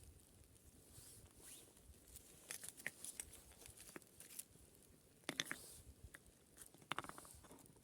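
Faint, scattered clicks and rustles of small handling noises, with a few sharper clicks about five and seven seconds in.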